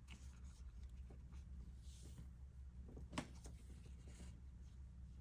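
Faint clicks and soft rustling of a crochet hook pulling yarn through stitches, the clearest click about three seconds in, over a steady low hum.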